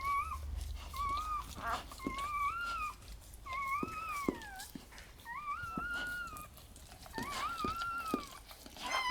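Newborn Redbone Coonhound puppy crying: about six high, thin whines in a row, each rising and then falling in pitch.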